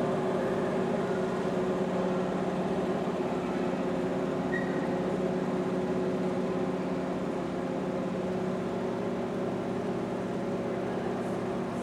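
A steady mechanical drone with several constant pitches, easing slightly toward the end.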